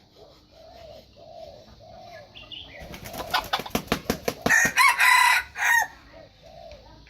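Red junglefowl rooster beating its wings rapidly for about two seconds, then crowing loudly, the crow ending in a short final note.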